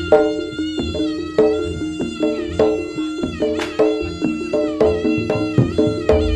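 Jaranan gamelan music: a held, wavering wind melody with many overtones over a steady low drone and regular percussion strikes about every half-second.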